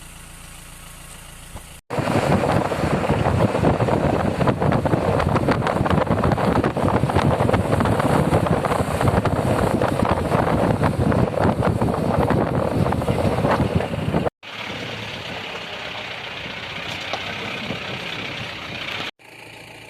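A motor vehicle running, with dense engine and road noise, heard in three stretches joined by abrupt cuts. The long middle stretch is much the loudest.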